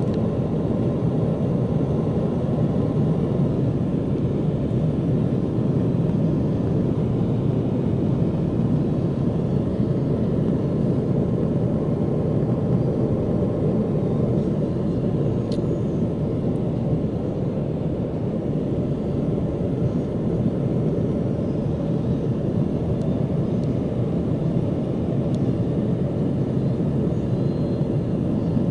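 Steady cabin noise of a commercial jet airliner in flight: an even, unchanging low rush of engines and airflow.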